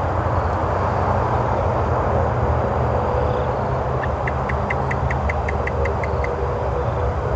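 Steady low rumble of wind buffeting the microphone outdoors. About four seconds in, a bird calls a quick run of about a dozen short, high notes, roughly five a second.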